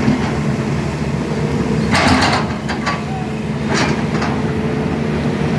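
Sany SY210C-9 hydraulic excavator running steadily while it works, with a few short harsh bursts of noise from the machine about two seconds in and again near four seconds.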